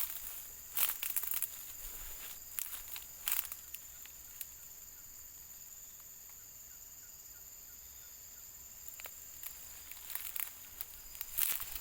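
Outdoor field ambience: a steady, high-pitched insect chorus throughout, with brief bursts of rustling and crackling in the vegetation about a second in, around three seconds in, and again near the end.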